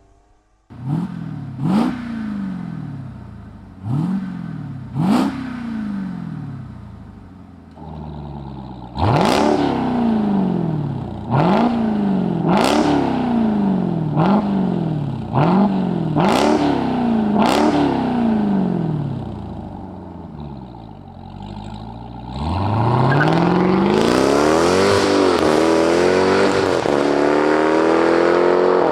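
Dodge Durango SRT Hellcat's supercharged 6.2-litre V8 revved through its active exhaust: a string of sharp throttle blips, each rising quickly and falling back to idle, with the idle getting louder about eight seconds in. Near the end the engine is held at high revs for several seconds.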